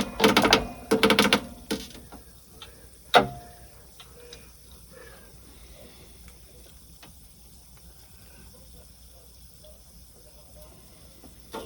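Mumbled voice for the first couple of seconds, then a sharp click about three seconds in and faint scattered ticks and scrapes of a cutter being worked around thin-walled half-inch pipe. The soft pipe is crushing rather than cutting, and the blade only just starts to bite.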